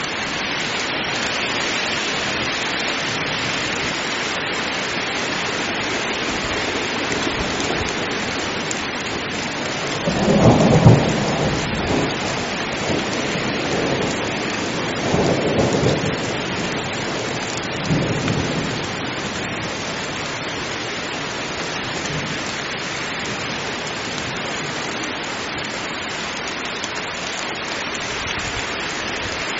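Heavy rain pouring steadily in a thunderstorm. About ten seconds in, thunder rumbles loudly, the strongest clap just after, with further rolls of thunder a few seconds later and a last short one a few seconds after that.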